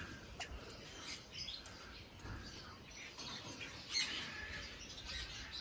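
Parrots in an aviary giving scattered squawks and chirps, with one louder squawk about four seconds in.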